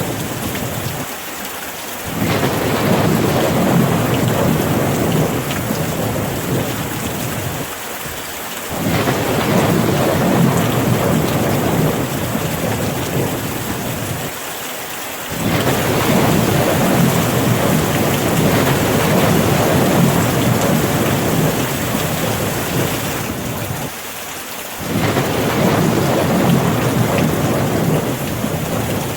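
Steady rain with rolling thunder: a low rumble swells in for several seconds at a time, four times over, each time dropping away briefly before the next roll.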